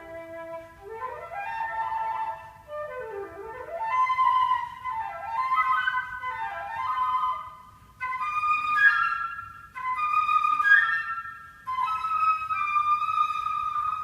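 Solo flute playing quick runs that sweep up and down. After a brief break about eight seconds in, it moves to higher separate notes and ends on a long held note.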